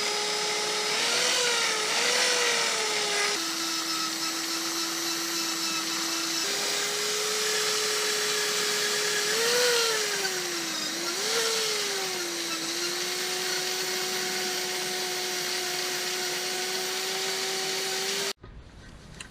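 Power tool spinning a wire brush, scrubbing old silicone sealant off a three-piece wheel's face. A steady motor whine that sags in pitch a few times as the brush is pressed against the metal and then recovers, cutting off abruptly near the end.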